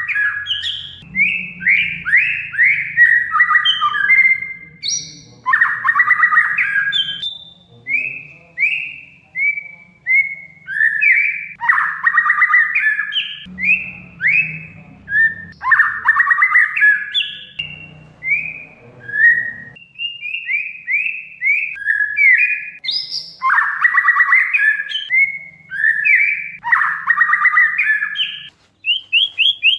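Oriental magpie-robin (kacer) singing continuously: quick runs of short downslurred whistled notes alternate every few seconds with dense, harsh rattling chatter phrases. A faint low hum lies underneath.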